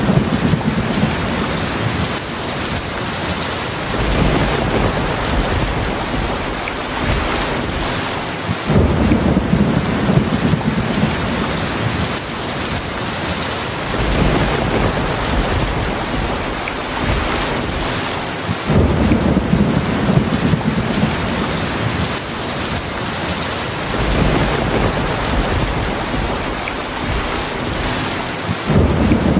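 Heavy rain falling steadily, with low thunder rumbling in swells that come back about every five seconds.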